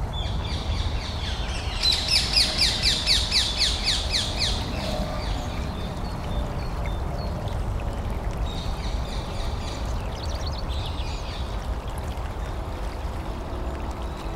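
A bird calling: a quick run of about ten sharp chirps, roughly four a second, loudest from about two to four and a half seconds in, with softer chirping again later, over a steady low rumble.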